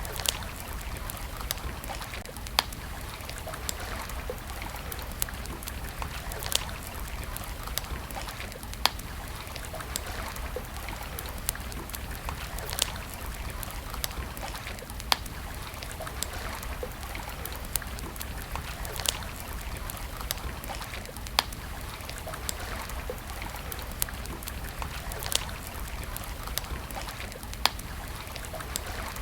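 Campfire crackling, with sharp wood pops every second or two over a steady rush of flowing river water.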